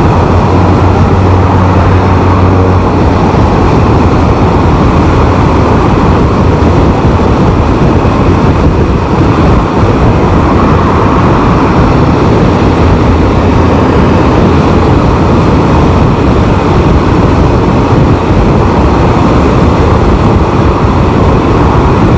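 Loud, steady wind rush and road noise over the rider's microphone while riding a Can-Am Spyder three-wheeler, with the engine's low hum most distinct for the first few seconds.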